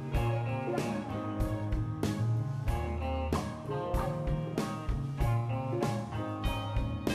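Instrumental band music: electric guitars playing over bass and a steady drum beat, with no singing.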